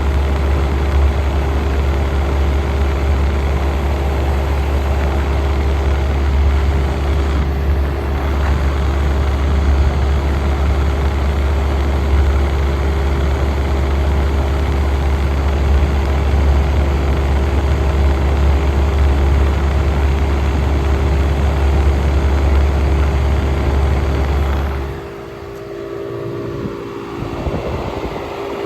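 A 1967 Chrysler Airtemp air conditioner running with a loud, steady deep hum. Near the end the deep hum stops suddenly and a falling whine follows as something winds down, while a steadier, higher hum carries on.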